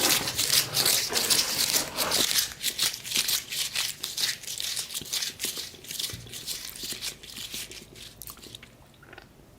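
Close-miked crunching and crinkling eating sounds, a dense run of crisp crackles that thins out and fades near the end.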